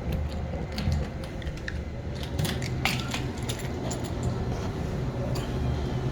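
A ring of keys jangling while a key is worked in a door's bottom lock, with a run of sharp metallic clicks about two and a half to three seconds in. A steady low hum runs underneath.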